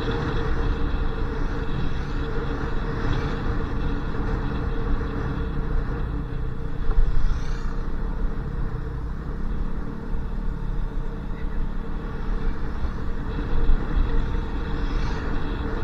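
Motorcycle being ridden: engine running steadily under wind noise on the microphone.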